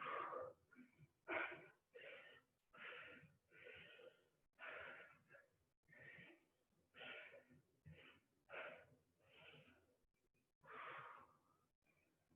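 Faint, heavy breathing of a person working out, with rhythmic breaths about once a second, panting from exertion.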